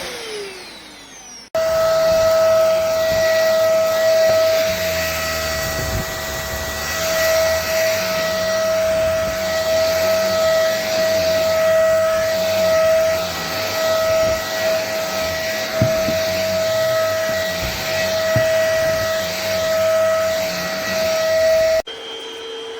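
Tower VL35 cordless stick vacuum's motor running with a steady high whine over a rush of airflow. The pitch falls at the very start, and a couple of short knocks come through in the middle.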